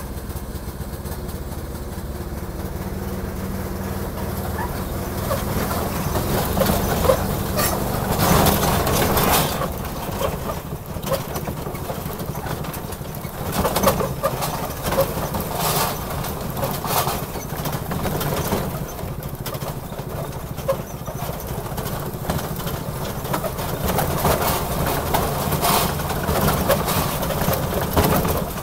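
Small locomotive running down its track: a steady engine note under the rattle and clank of the train, with louder jolts several times along the way.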